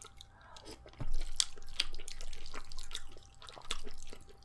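Close-up eating sounds of a person chewing a mussel: wet clicks and smacks from the mouth, with a louder knock about a second in.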